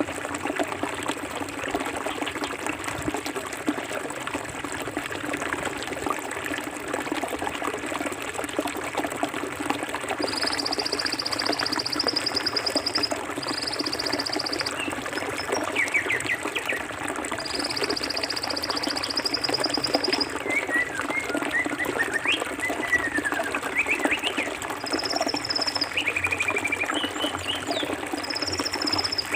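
Clear forest river water flowing and trickling steadily. Over it, birds call: high rapid trills in several runs of one to three seconds from about ten seconds in, and short chirps in the second half.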